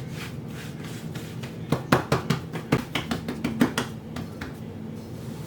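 A quick run of about ten light knocks and taps on a kitchen work surface, over a steady low hum.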